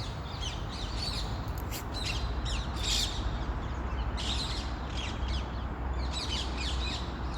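A flock of feral rose-ringed parakeets squawking and screeching, many short harsh calls overlapping, over a steady low rumble.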